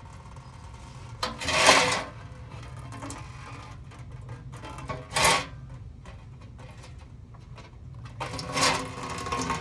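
Ratchet wrench clicking in three short bursts while a fastener is unscrewed, over a steady low hum.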